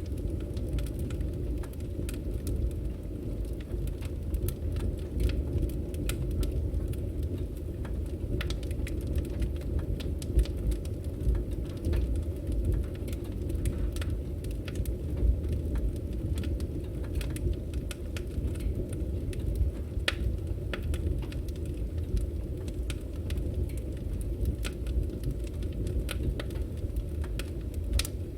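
Firewood burning: a steady low rumble of flames with frequent, irregular sharp crackles and pops from the logs.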